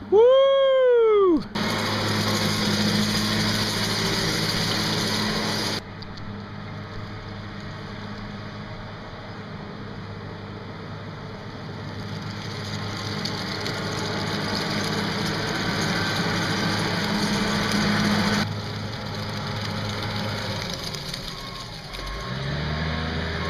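A small engine running steadily, with abrupt changes in level like cuts between clips; near the end its pitch rises as it revs. It is preceded by a loud, short, rising-then-falling whoop.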